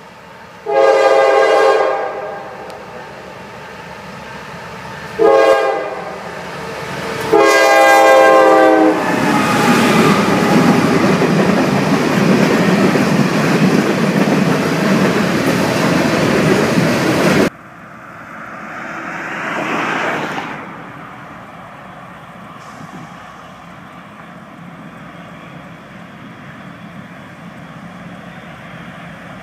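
A diesel locomotive's multi-note air horn sounds long, short, then long, and the freight train rolls by close, its cars clattering over the rail joints. About 17 seconds in it cuts off abruptly to a much quieter steady rumble that swells briefly.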